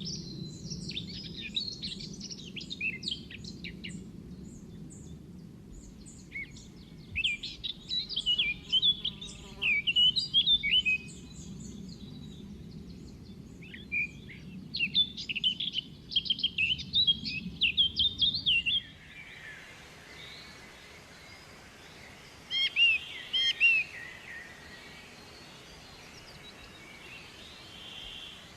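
Small birds chirping and twittering in quick bursts of short notes, with quieter stretches between. Beneath them runs a low, steady rumble that stops abruptly about two-thirds of the way in, after which only scattered chirps remain.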